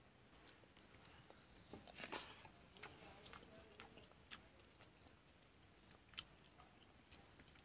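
Faint sounds of a person eating rice and vegetable curry: quiet chewing with a few scattered small clicks, the loudest about two to four seconds in.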